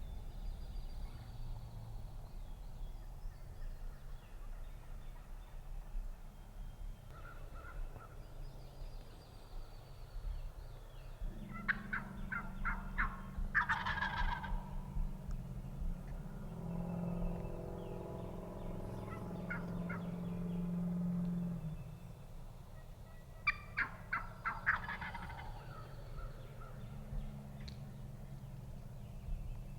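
Wild turkey gobbling twice, each a short rapid rattling call, the first about twelve seconds in and the second about twenty-four seconds in. Between the two gobbles a low steady hum rises and then stops.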